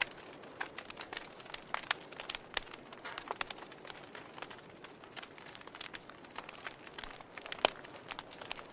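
Wood fire crackling in a fireplace: irregular sharp snaps and pops over a soft hiss, with one louder pop near the end.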